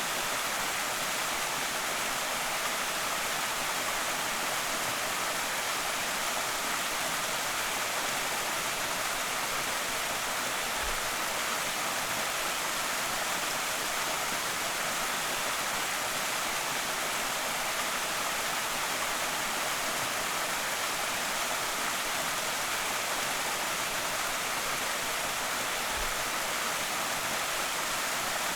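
Creek waterfall: a steady, even rush of falling and splashing water with no change in strength.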